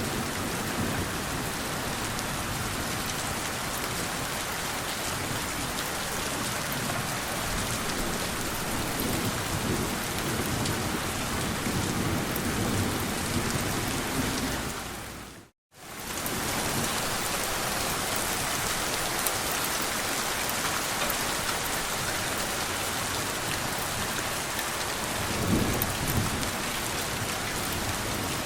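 Steady rain falling on a surface, with low rolls of thunder swelling about a third of the way in and again near the end. About halfway through the sound fades out to silence for a moment and comes straight back, like a loop point in the recording.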